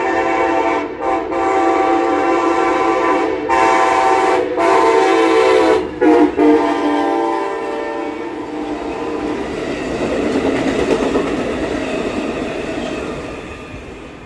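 Amtrak Pacific Surfliner train's locomotive air horn sounding a chord of several tones in a run of long blasts with short breaks, ending about six seconds in. Then the passing bi-level cars rumble and clatter over the rails, fading as the train moves away near the end.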